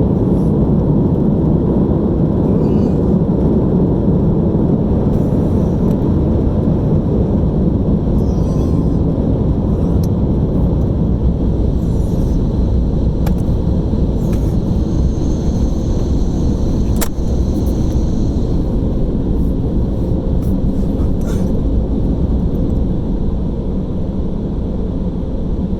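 Automatic car wash equipment running, heard from inside the car as a loud, steady rumble with a few faint clicks.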